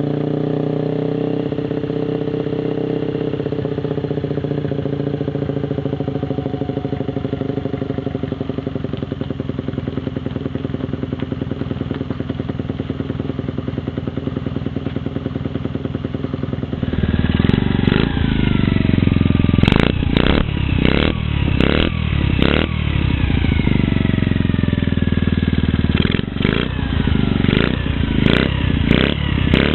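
Honda Gorilla mini-bike's small four-stroke single-cylinder engine running steadily at low revs. About two-thirds of the way through, a louder recording of the same kind of bike takes over, with a series of sharp throttle blips, the revs dropping back after each.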